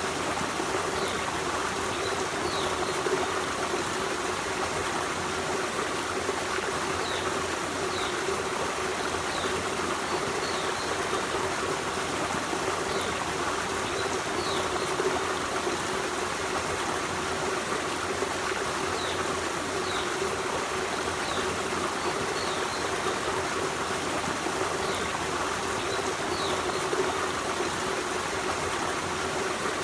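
Forest stream running over rocks: a steady, even rush of flowing water with no change in strength. Faint short high notes recur every second or two above the water.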